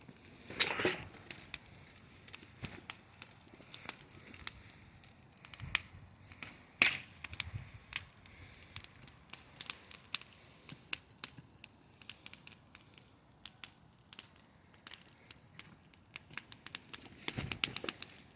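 Bonfire crackling: wood snapping with irregular sharp pops, and two louder pops, one about a second in and one about seven seconds in.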